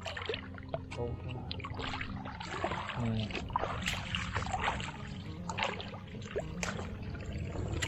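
Water sloshing and splashing in irregular strokes, like hands working through shallow water, with scattered sharp clicks and a low voice now and then.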